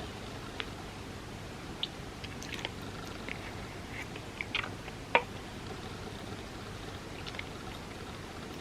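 Close-up mouth sounds of chewing soft, creamy crepe cake: scattered wet clicks and smacks over a steady hiss. The sharpest click comes a little past the middle.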